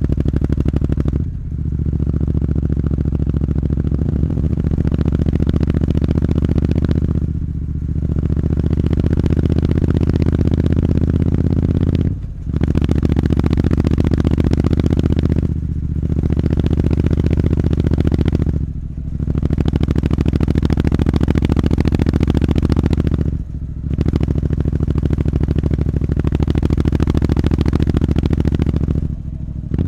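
Triumph Street Scrambler's 900 cc parallel-twin engine running through aftermarket Zard mufflers, held at a steady speed. The sound briefly drops away and comes back about every three to six seconds.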